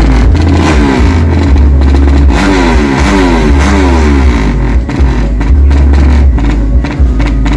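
Drag-racing motorcycles with 200cc-class engines accelerating hard. The engine pitch climbs and drops back again and again as the rider shifts up through the gears.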